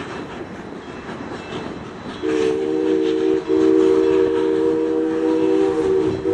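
Steam locomotive chime whistle blowing, a chord of several low steady tones. It starts about two seconds in, breaks briefly about a second later, then holds on.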